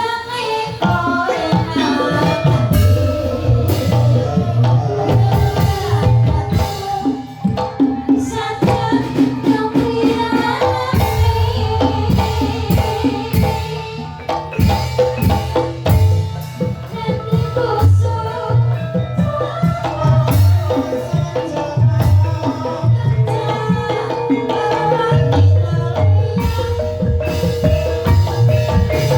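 Javanese gamelan accompaniment for ebeg: ringing metallophone or xylophone notes over a steady hand-drum (kendang) beat.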